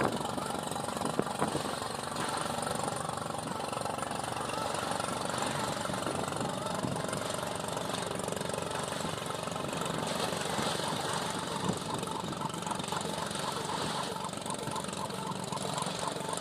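Fishing boat's engine running steadily under a constant rush of wind and water noise, with a light regular ticking joining in during the second half.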